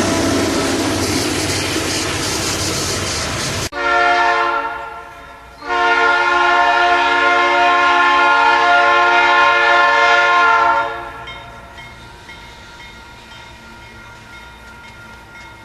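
Freight train rolling past with dense, steady wheel-and-rail noise, which cuts off abruptly. A diesel locomotive's multi-chime air horn then sounds a short blast that fades away, followed by a long blast of about five seconds, and a faint distant train rumble remains.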